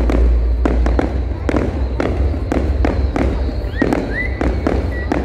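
Aerial firework shells bursting, an irregular string of sharp bangs about three a second over a deep booming rumble.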